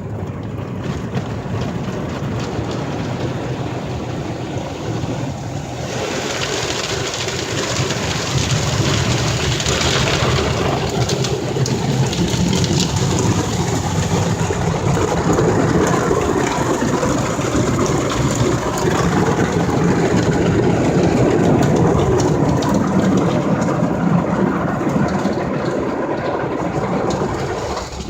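Ryko SoftGloss XS2 rollover car wash working over the car, heard from inside the car: a loud, steady rush of spray and wash machinery over a low rumble, growing louder and brighter about six seconds in.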